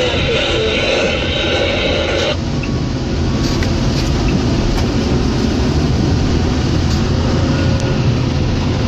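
John Deere 624J wheel loader's diesel engine running steadily while plowing snow, with a higher hiss over it that cuts off suddenly about two seconds in.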